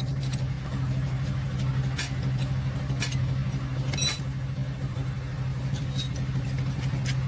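A motor running with a steady low drone, with a few sharp metal clicks and knocks over it, roughly a second apart.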